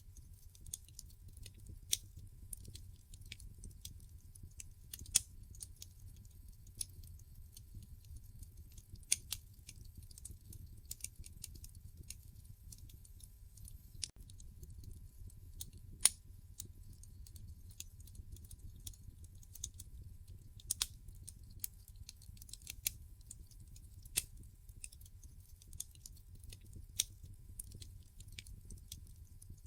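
Wood fire in a fireplace crackling: irregular sharp pops and snaps from the burning logs, a few of them much louder, over a low, steady rumble.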